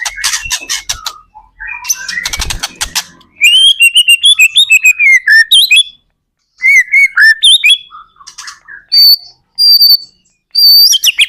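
White-rumped shama singing loudly in varied phrases of clear whistles, rapid repeated chips and a harsh rasping stretch, broken by short pauses.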